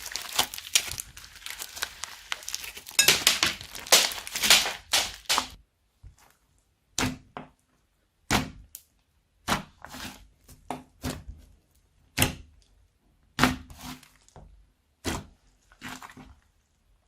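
Slime being squished and worked by hand: dense crackling for about the first five seconds, then separate sharp pops and clicks roughly once a second.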